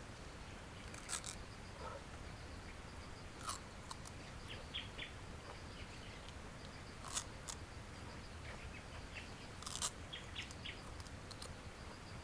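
Biting and chewing a raw elephant grass (Napier grass) stalk: four sharp crunches spaced a couple of seconds apart, with smaller crackles of chewing between them.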